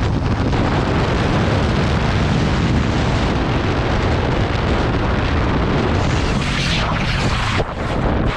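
Heavy wind buffeting on a motorcycle rider's camera microphone at speed, with the motorcycle running beneath it. It eases slightly near the end, with a few sharp knocks.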